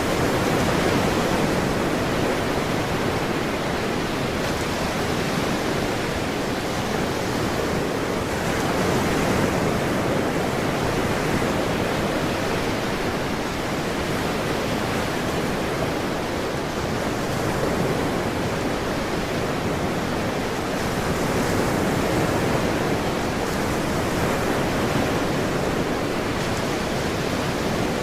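Ocean surf washing in a continuous, steady rush, swelling slightly a few times as waves roll in.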